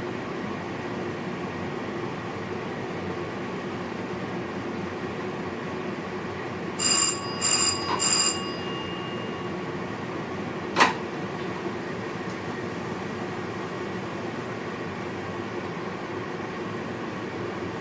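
Steady running noise inside the driver's cab of a VIRM electric train, with three quick electronic beeps about seven seconds in and a single sharp click about three seconds later.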